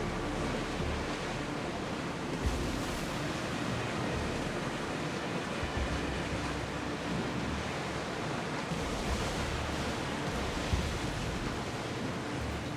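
Steady rush of sea waves and wind, with uneven low buffeting from wind on the microphone and a couple of soft thumps.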